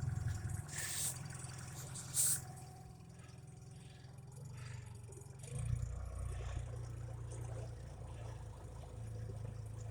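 Low, steady hum of a truck engine running, shifting in level about halfway through, with two short hissy rushes near the start.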